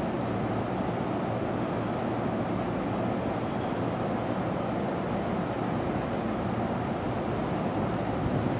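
Steady rumble of a JR East 251 series electric express train rolling away along the track, with no distinct clicks or horn.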